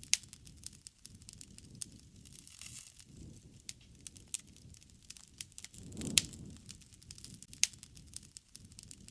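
Wood fire crackling, with irregular sharp pops and a soft low rumble of the flames that swells about six seconds in.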